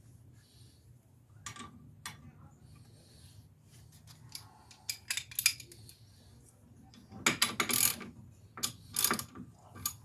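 Hand tools and bolts clinking and clattering on metal as the wheel bearing hub is bolted back in: scattered sharp metallic clicks, busiest about seven to nine seconds in, over a low steady hum.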